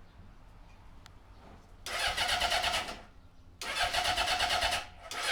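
Honda CB750K2 four-cylinder engine being cranked by its electric starter in short bursts, a steady churning whine about two seconds in, again near the middle, and a third starting near the end, without the engine catching.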